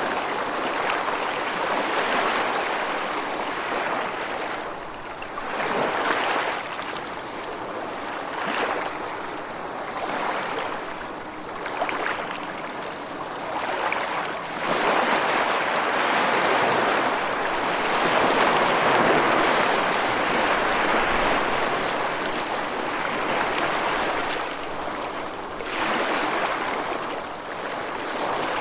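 Rushing water: a dense, steady hiss that swells and eases every few seconds.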